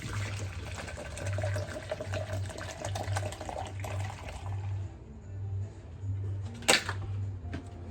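Water running from a faucet into a spray bottle, shut off a little past halfway, then a single sharp knock near the end.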